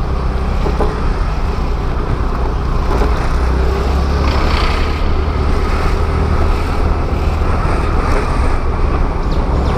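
Steady scooter engine and road noise with a heavy low rumble, as heard while riding.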